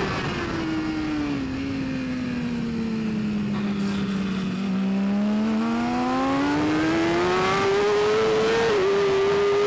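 Superbike engine at high revs. Its pitch falls steadily for about five seconds as engine speed drops, then climbs back up and holds high, with a brief dip near the end.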